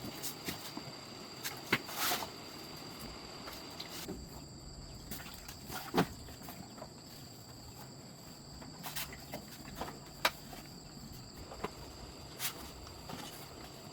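Scattered light clicks and knocks of hand work on a motorbike, the sharpest about two, six and ten seconds in, over a steady high insect drone.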